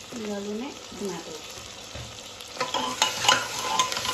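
Onions frying in oil in a pressure cooker, sizzling as chopped tomatoes are tipped in. From about two and a half seconds in, a spoon stirs and scrapes against the cooker, with repeated clinks.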